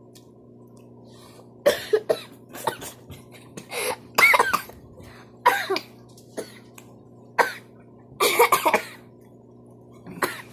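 A person coughing repeatedly in short, sharp coughs spread through several seconds, which the speaker puts down to an allergy.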